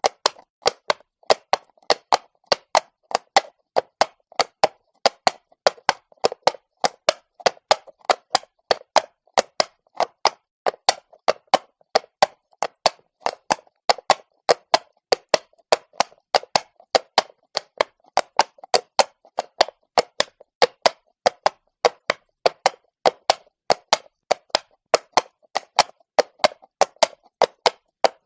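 Horse hooves clopping on cobblestones at a walk: sharp, even clacks in a steady rhythm, about three a second.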